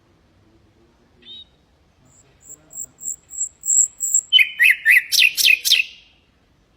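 Common nightingale singing one song phrase. A soft short note comes first, then a run of thin, very high repeated notes, then a loud, rapid string of sharp notes that each fall in pitch, stopping about six seconds in.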